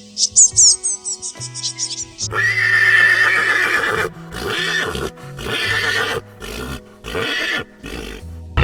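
A few quick high bird chirps, then about two seconds in a horse neighs loudly and follows with several shorter whinnies, over steady background music.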